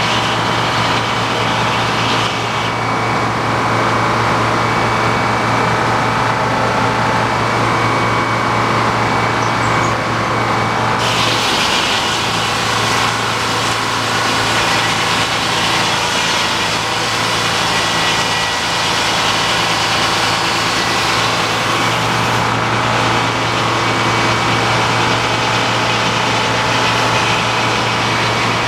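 Sawmill engine running steadily under load while the saw cuts through a large log. The engine's note shifts for about ten seconds in the middle, then settles back.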